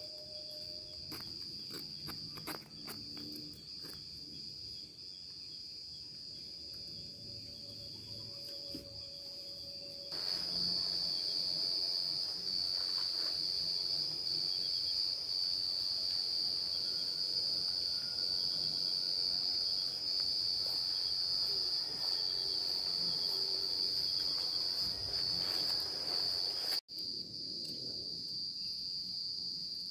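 Insects chirring in a steady, unbroken high-pitched drone. The sound gets louder about a third of the way in, and cuts out for an instant near the end, where the video is edited.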